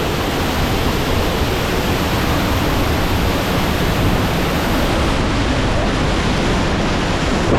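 Waterfall pouring into a rocky pool: a loud, steady rush of falling water.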